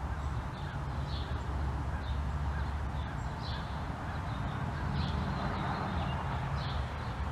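Small birds chirping over and over, short high chirps about once or twice a second, over a steady low hum.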